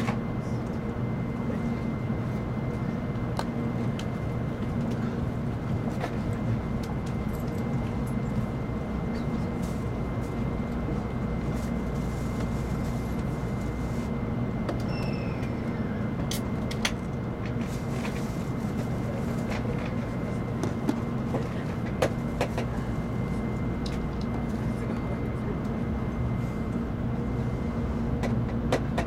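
Cabin running noise of an N700 series Shinkansen car: a steady low rumble with a constant hum and a thin steady whine, and a few faint clicks and knocks.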